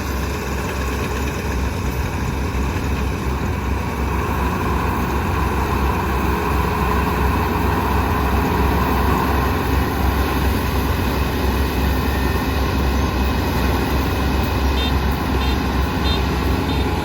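Kubota ER 470 combine harvester running steadily under load, a continuous low engine drone with machinery noise over it, a little louder in the middle. Near the end, a short run of high beeps repeats.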